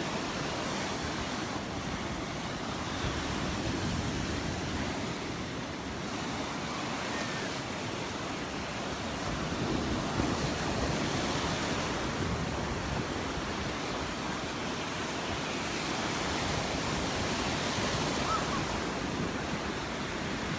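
Gentle Gulf of Mexico surf washing onto a sandy beach, a steady wash that swells a little every several seconds, with light wind on the microphone.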